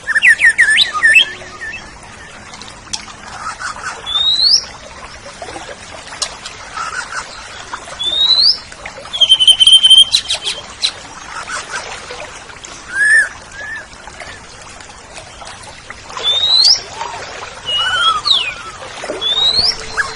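Oriental magpie-robin (kacer) singing in short, separate phrases of clear whistled upslurs and quick chirps, with brief pauses between phrases and one held whistled note about halfway through.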